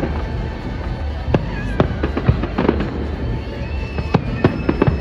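Fireworks going off in an irregular series of sharp bangs, several close together around the middle and near the end, over a steady low rumble.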